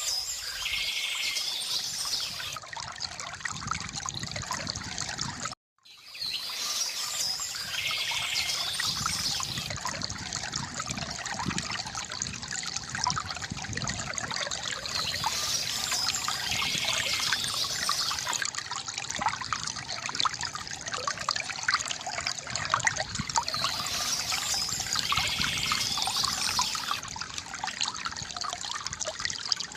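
River water gurgling and trickling steadily, with birds chirping in short spells that come back every eight or nine seconds. The sound cuts out completely for a split second about five and a half seconds in, then resumes.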